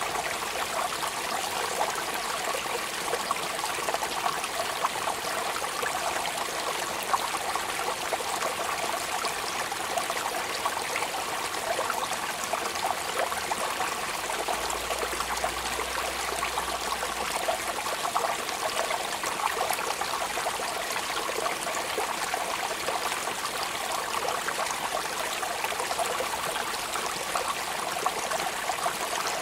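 Steady rain falling: an even, unbroken patter of many fine drops.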